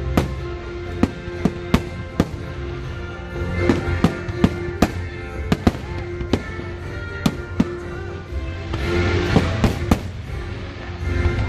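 Aerial fireworks bursting one after another in quick, irregular bangs, with a denser spell of crackle about nine seconds in. Music plays steadily underneath.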